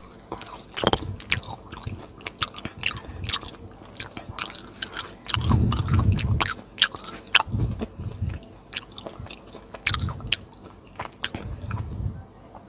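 Close-miked chewing of soft food, with many wet mouth clicks and smacks between several longer chewing spells.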